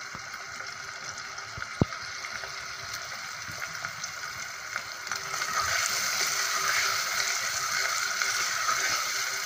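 Onions and tomatoes frying in ghee in a pot, a steady sizzle that grows louder about halfway through as a spatula stirs them. A single sharp click about two seconds in.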